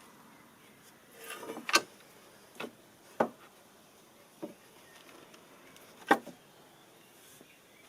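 Five irregularly spaced knocks and clatters, typical of wood being handled, with a short scraping rustle just before the first loud knock. The loudest come in the second and sixth seconds.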